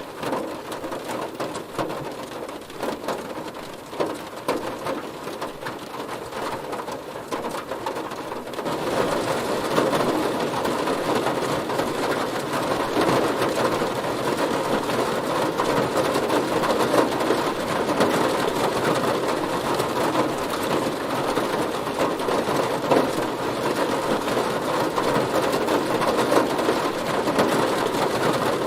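Heavy rain hitting a car, a dense patter of drops on the bodywork. It grows heavier and louder about nine seconds in.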